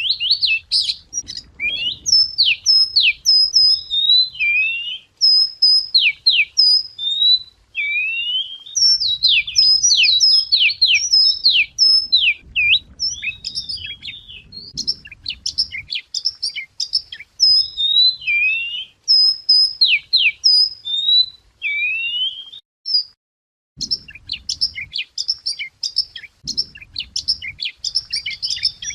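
A chìa vôi (wagtail) singing a loud, varied song of quick whistled notes, slurred up-and-down phrases and twitters, with a short pause near the end. A faint low rumble sits underneath.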